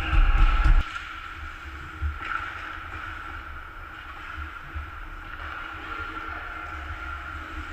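Hockey arena ambience: a steady hum, a loud low rumble in the first second, and one sharp knock about two seconds in.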